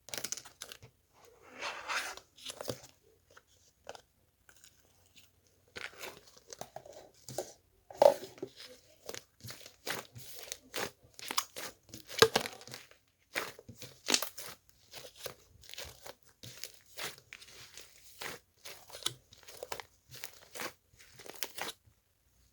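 Hands squeezing and working something crinkly, making irregular crunching and crackling sounds in quick bursts, with a few louder crunches along the way.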